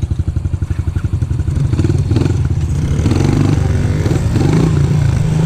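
Small off-road engine idling with an even putter, then opened up about a second and a half in and running steadily and louder under throttle.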